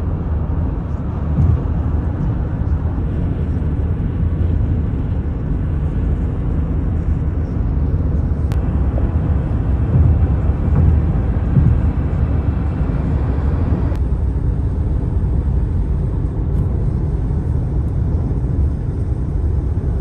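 Steady low rumble of road and engine noise inside a moving car's cabin, with a couple of faint clicks.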